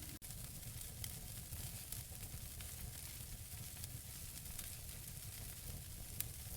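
Wood fire burning in a fireplace: a steady low rumble and hiss from the flames, with scattered sharp crackles and pops from the burning logs. The sound cuts out for an instant just after the start.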